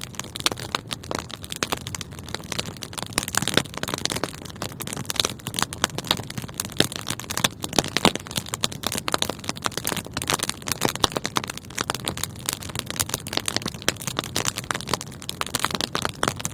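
Wood fire burning in a fireplace, with many sharp irregular crackles and pops over a steady hiss.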